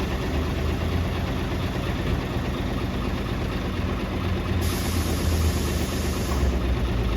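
City bus engine idling steadily just after a start-up, with an even low pulsing drone. A high hiss joins in for about two seconds past the middle.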